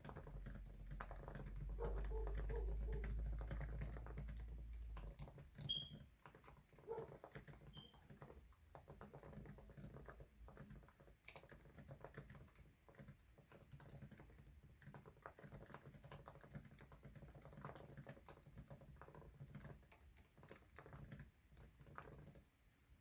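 Fast, continuous typing on a computer keyboard: a dense, irregular patter of keystrokes during a speed-typing test. A low rumble sits under the first five seconds or so.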